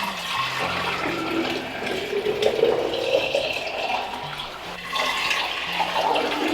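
Milk streaming and splashing into a pail during milking: a continuous liquid pouring sound.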